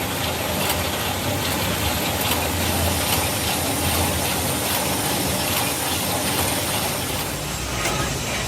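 Workshop machinery running steadily with a low hum and faint rapid ticking; a deeper rumble joins about seven seconds in.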